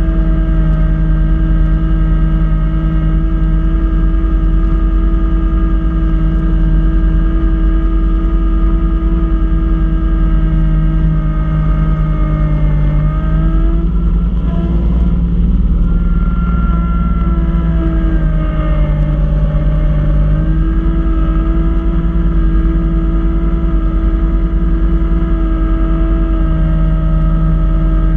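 Kubota B2650 compact tractor's three-cylinder diesel engine running steadily at working revs, driving a front-mounted snowblower. About halfway through, the pitch sags for several seconds, then comes back up.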